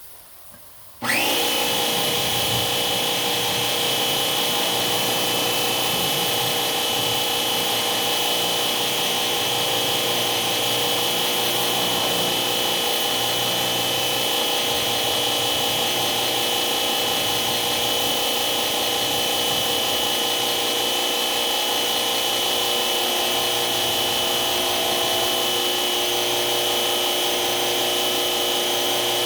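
An electric motor switches on about a second in and runs steadily at full speed, with a high whine over a loud hiss.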